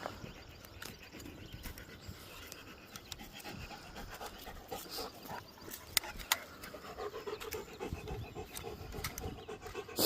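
Dog panting steadily, hot and winded after a long run.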